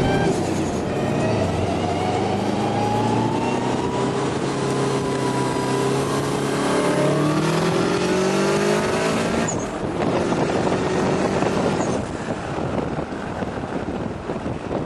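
Subaru WRX's turbocharged flat-four engine pulling hard under full throttle, its pitch rising steadily after a gear change right at the start. About nine and a half seconds in the engine note drops away as the throttle is lifted, leaving road and wind noise.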